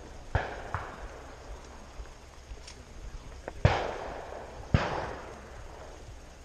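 Shotgun shots: a fainter one just after the start, then two louder shots about a second apart, each dying away with a short echo.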